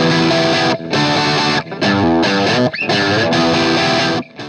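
Distorted electric guitar music in short phrases broken by brief gaps, stopping just before the end.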